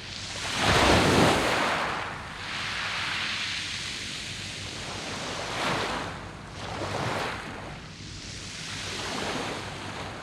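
Sea waves washing onto a beach of round pebbles, in repeated surges of hissing surf. The biggest surge comes about a second in, with smaller swells later on.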